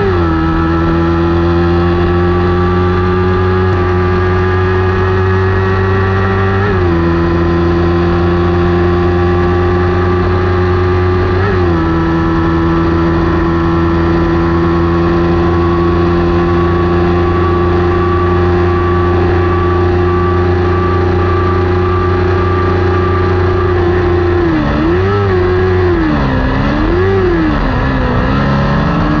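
Kawasaki Ninja 400 parallel-twin racing engine running hard at high, nearly steady revs, with two quick gear changes about 7 and 12 seconds in. Near the end the revs drop and climb again twice.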